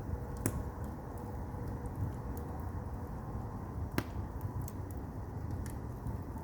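Firewood burning in a traditional Korean agungi furnace: a steady low rumble of the fire with scattered small crackles, and two sharp pops of the burning wood, about half a second in and about four seconds in.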